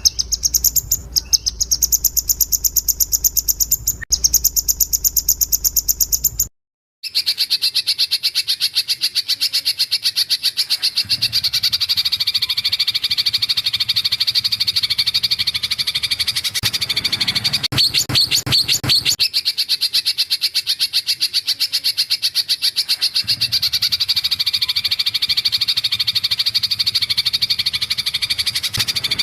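Recorded songbird calls used as masteran song material for training magpie-robins. First comes a high, held note; then, after a brief cut, a long, loud, very fast trill of evenly repeated high chirps.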